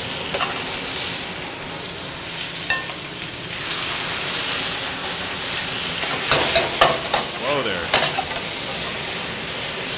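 Scallops sizzling in a very hot wok of sesame chili oil. The sizzle grows louder about three and a half seconds in, with several clatters of tongs stirring against the wok around the middle.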